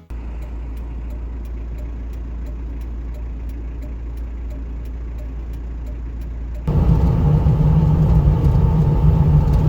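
Car driving, heard from inside the cabin: a steady low engine and road rumble that gets louder about two-thirds of the way in.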